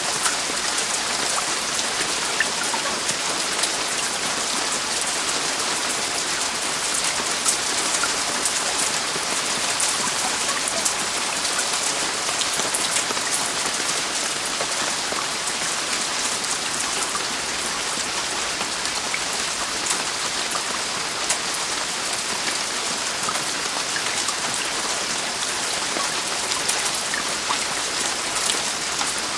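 Heavy, steady rain falling on a roof: a dense hiss of drops with many small individual ticks of drops striking.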